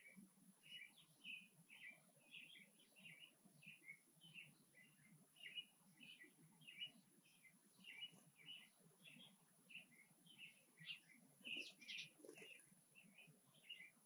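Faint, continuous chirping of small backyard birds: short repeated chirps, about two or three a second, with a louder cluster near the end.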